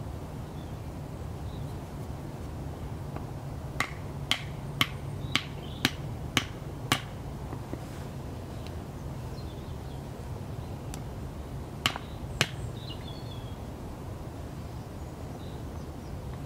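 Sharp clicks: seven about half a second apart, then two more a few seconds later, over a steady low rumble. Faint high chirps come and go.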